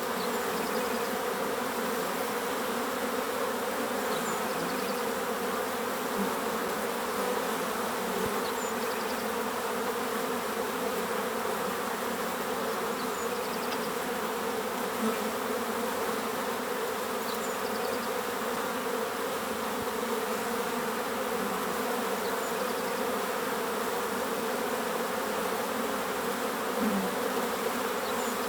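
Many bees buzzing in a dense, steady drone, with faint short bird calls repeating about every four to five seconds.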